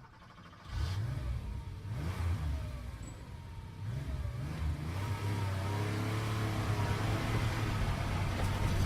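A car engine revving in several quick rises and falls of pitch, then holding a steadier, slowly climbing note.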